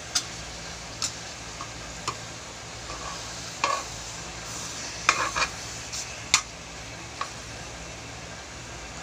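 Sinantulan sizzling steadily in a pan as it cooks down and releases its coconut oil, with a cooking utensil knocking and scraping against the pan about ten times while it is stirred, the loudest knocks about halfway through.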